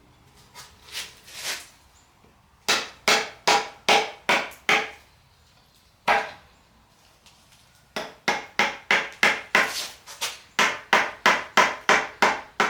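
Hammer blows driving a pry bar in to break the sealant-glued oil pan of a Nissan VG30DETT engine free from the block. It starts with a few light taps, then comes a short run of sharp blows and a single blow, then a steady run of about two and a half blows a second in the last few seconds.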